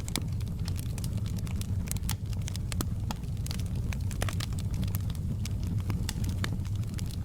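Wood fire crackling, with frequent irregular sharp pops over a steady low rumble of the flames.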